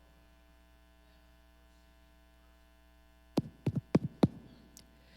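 Steady electrical mains hum with many even overtones, then a quick run of about five sharp knocks or claps a little over three seconds in.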